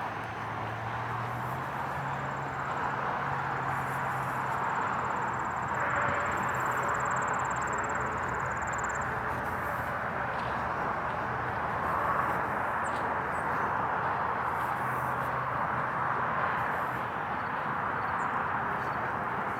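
Steady background hum of distant vehicle traffic, with a low engine drone underneath.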